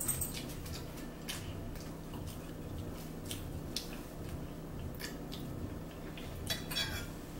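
Someone biting and chewing garlic toast close to the microphone: a scatter of small crisp clicks and mouth sounds, over a steady low hum.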